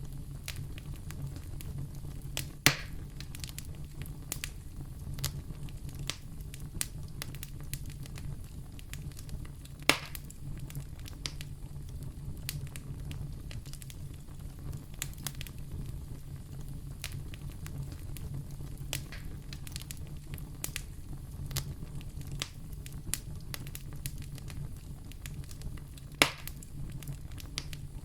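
Wood fire crackling in a fireplace: a steady low rumble of the flames under frequent small snaps, with three louder pops, one a few seconds in, one about ten seconds in and one near the end.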